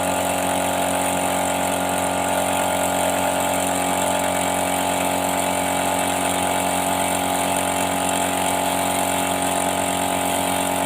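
A motor running at a constant speed, giving a loud, unchanging hum.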